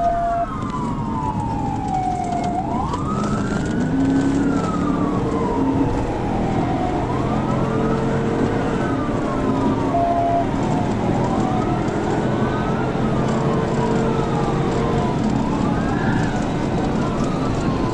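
Police car siren on a wail, rising and falling about every four seconds, over steady engine and road noise. Two short beeps sound, one at the very start and one about ten seconds in.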